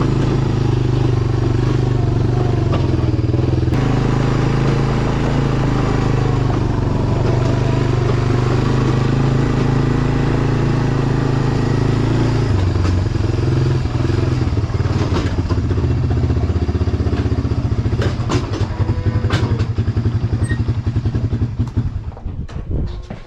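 A vehicle engine runs steadily. About halfway through, its note changes to a slower, pulsing idle, with a few knocks and clanks near the end, and then it dies away just before the end.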